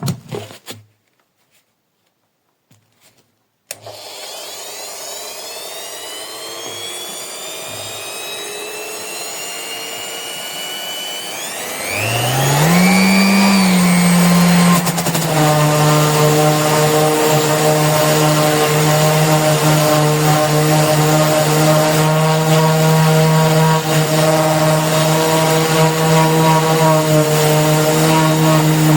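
Vistreck 450 W corded random orbital sander running with a whirring noise that slowly grows. About twelve seconds in, its motor speeds up to a steady high hum.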